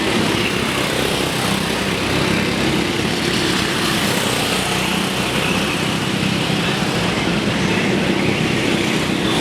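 Racing kart engines running at speed on track, a steady, continuous engine buzz.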